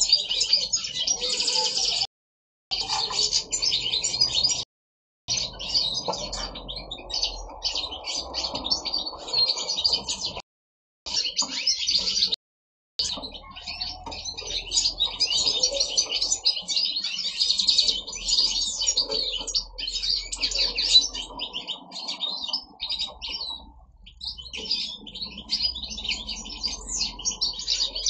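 A mixed aviary of finches singing all together: European goldfinches, with siskins, a canary and chaffinches, in a dense, continuous twittering. The song drops out to dead silence for about half a second four times in the first half.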